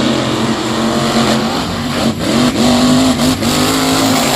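Monster truck engines at full throttle, accelerating off the start line in a side-by-side race, engine pitch rising in steps.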